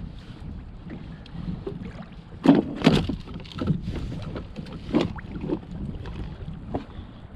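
Water splashing and knocking against a kayak over a steady low rumble of wind on the microphone. There is a cluster of louder splashes and knocks a bit past a third of the way in, and another near two-thirds.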